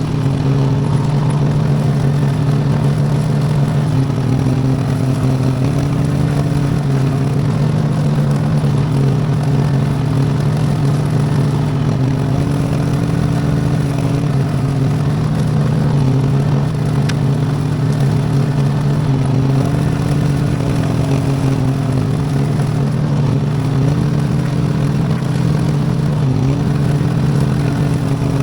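V-twin Briggs & Stratton engine of a homemade tractor running steadily while mowing with a bush hog, its pitch shifting slightly every few seconds as the load changes.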